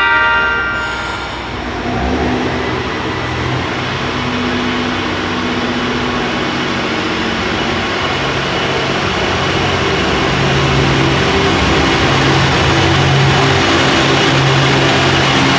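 JR Hokkaido H-100 DECMO diesel-electric railcar: a short horn note at the start, then its diesel engine running with a low steady drone that slowly grows louder.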